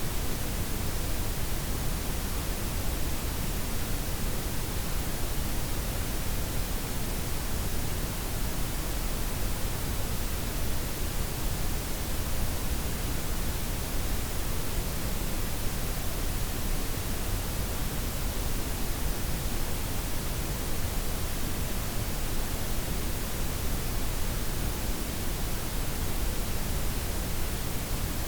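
Layered synthetic noise, white, pink and brown blended, in an even, steady hiss with a deep rumble underneath and the highs softened.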